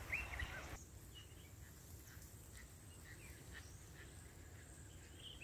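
Faint outdoor ambience with scattered, short bird chirps; the background hiss gets quieter about a second in.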